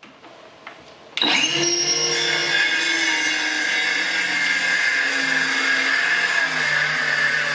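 A power saw spins up about a second in and runs steadily with a whine, cutting a long plywood trim strip along a clamped straight-edge guide. Faint handling knocks come before it.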